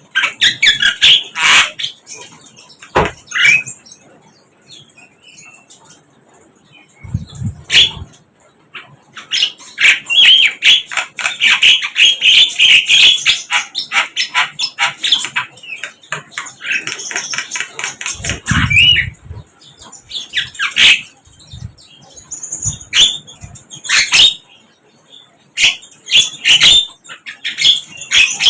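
Sikatan londo flycatcher calling in rapid bursts of high chirps and twittering trills, broken by sharp clicks. There are two brief low thumps, about a third and two-thirds of the way in.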